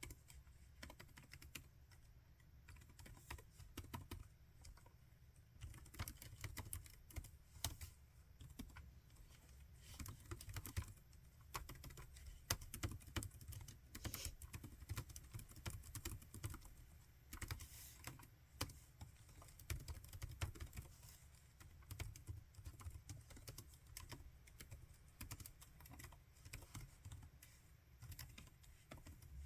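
Typing on a laptop keyboard: quick, irregular runs of soft key clicks with brief pauses between them.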